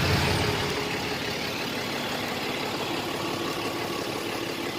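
A vehicle engine idling steadily; a heavier low rumble fades out in the first second.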